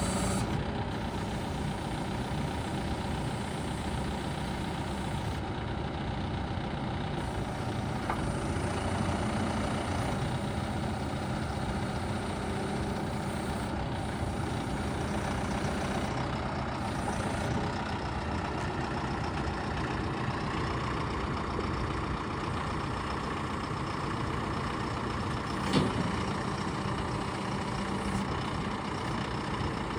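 John Deere 310SL backhoe loader's turbo diesel engine idling steadily, with one short knock a few seconds before the end.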